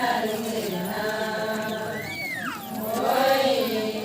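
Group of voices chanting an Adi ponung song in unison, holding long notes that slide between pitches.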